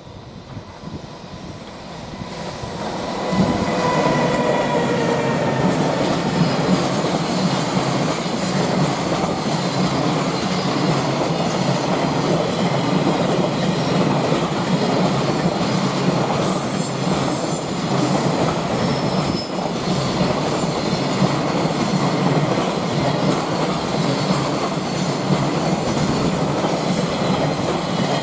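Freight train passing close by at speed. It grows louder over the first few seconds, with a whine that drops in pitch as the locomotive goes past. Then comes a long steady rumble of wagon wheels with clickety-clack over the rail joints.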